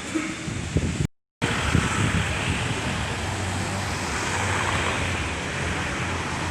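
Storm wind and heavy rain making a steady rushing hiss, which cuts out for a moment about a second in.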